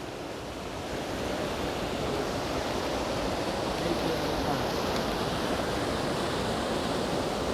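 Steady rush of creek water pouring over falls and a stone dam, growing a little louder about a second in.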